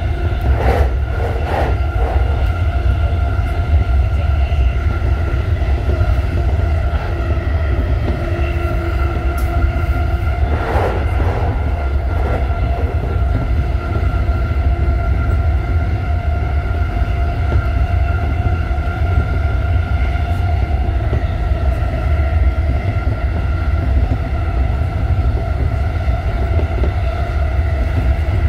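Running noise inside a JR Chuo Line Rapid E233-series electric train car at speed between stations: a steady low rumble with several steady tones above it, and a few brief clicks about a second in and again around eleven seconds.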